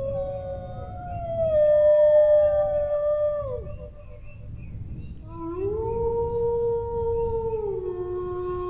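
Dogs howling in long held notes that overlap at different pitches. The first howl slides down and trails off about three and a half seconds in. After a short lull a new howl rises, holds, and steps down to a lower pitch near the end.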